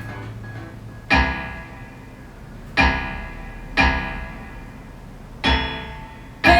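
Piano music played back through car audio speakers: five sparse chords, each struck and left to ring out and fade before the next.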